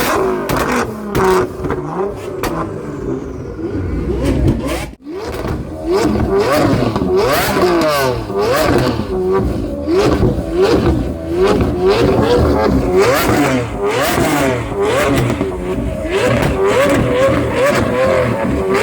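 A high-performance car engine being revved hard over and over, its pitch shooting up and falling back about once a second, with sharp cracks mixed in. The sound drops out briefly just before five seconds in.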